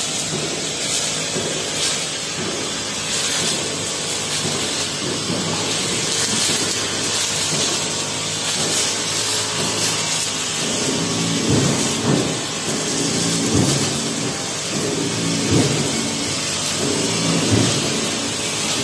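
Honda four-stroke brush cutter with a metal blade running steadily, cutting tall grass; in the second half the engine note swells and falls back several times as the blade is swung through the grass.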